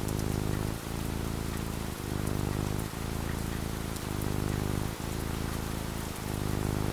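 Steady rain falling, with a strong low rumble whose loudness dips briefly about once a second.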